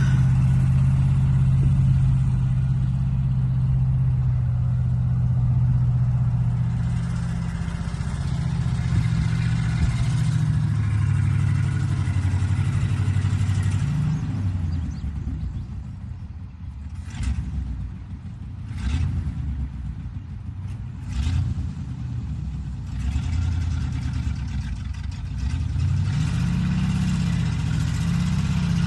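Truck engine running: a steady hum at first, then the revs waver and change, dropping quieter in the middle, where three sharp knocks sound, and picking up again near the end.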